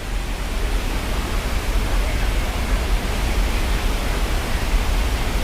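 Waterfall rushing: a steady, dense noise of falling water with a heavy low rumble.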